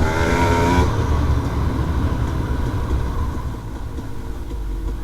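Dirt bike engine running, with a clear pitched engine note for about the first second, then mostly a deep, uneven rumble that slowly gets quieter.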